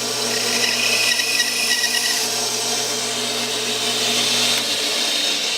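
Bandsaw running, its blade cutting a shallow kerf across the corners of a square pine blank to mark its center. A steady motor hum sits under a hiss of sawing, with a higher whine during the first two seconds.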